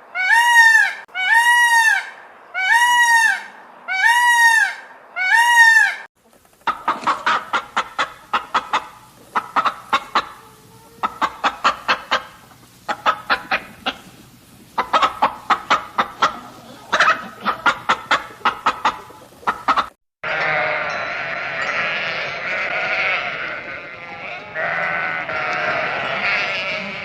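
A run of farm animal calls. First about six evenly spaced calls that rise and fall in pitch, then bursts of rapid clicking pulses, then from about two-thirds of the way in a dense, overlapping chorus of livestock bleating.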